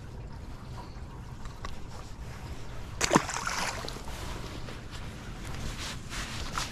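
Water and wind noise around a small aluminum fishing boat, with a steady low rumble and a sudden short burst of noise about three seconds in.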